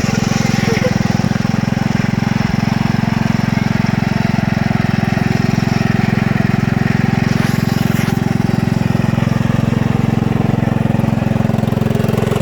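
Engine of an old Sears ST/16 garden tractor running at a steady speed.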